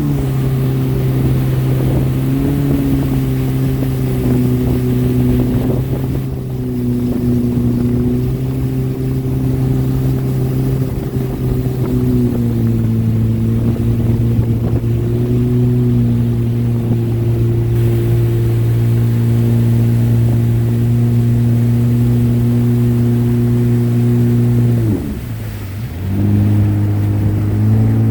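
Jet ski engine running at a steady speed. Near the end the revs drop briefly and then come back up.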